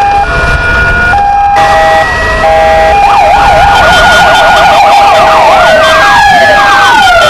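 Several electronic sirens sounding together, two PFA police motorcycle sirens and two Kingvox ERP sirens: a two-tone hi-lo stepping between two pitches, joined about three seconds in by a fast warbling yelp, and near the end by long rising and falling wails.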